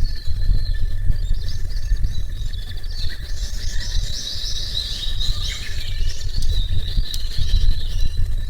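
A small songbird singing a quick series of repeated high notes, busiest in the middle, over a steady low rumble of wind on the microphone, with a thin steady insect-like tone.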